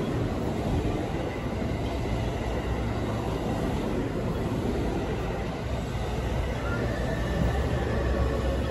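Electric commuter train on the platform track, a steady low rumble of its motors and wheels.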